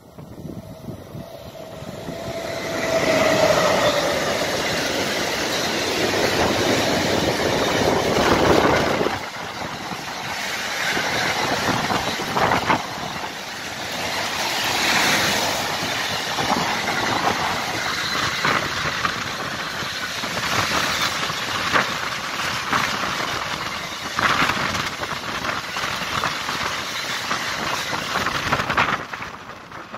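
Freight train of double-deck car-transporter wagons passing close by: it grows loud within the first few seconds, with a brief falling tone as the front goes past, then a long steady rolling noise with sharp wheel clicks over the rails, dropping away near the end.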